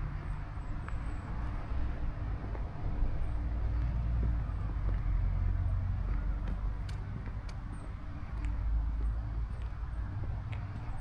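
Low, steady rumble of a motor vehicle's engine, swelling slightly around the middle, with faint high chirps of small birds scattered over it.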